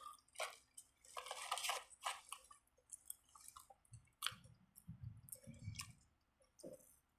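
A person chewing food close to the microphone, with irregular soft crunches and wet mouth sounds.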